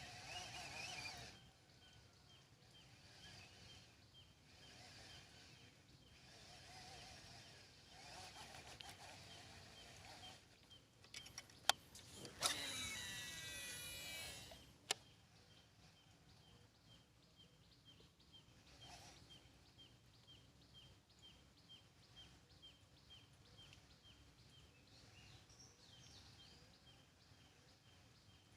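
Quiet open-air ambience with a faint, regular high ticking call repeating over several seconds. About halfway, a couple of sharp clicks, a brief loud whirring and another click.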